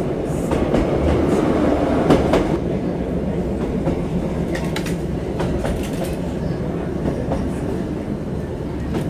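Running noise heard inside a moving passenger train: a steady low rumble with scattered clicks of the wheels over the track, a little louder in the first couple of seconds.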